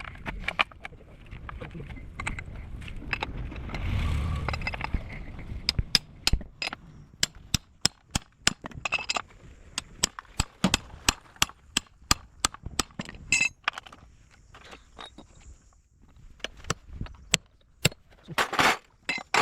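Sharp, irregular metallic knocks and clinks of hand tools on truck parts during gearbox work, with a low rumble that swells and fades in the first few seconds.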